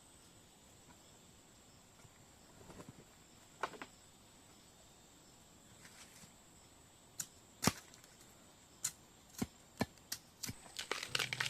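Irregular sharp snaps and knocks, sparse at first and coming faster near the end, over a steady high drone of insects.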